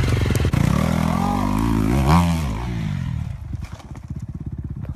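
Motorcycle engine revving up to a peak about two seconds in, then dropping back to a steady idle.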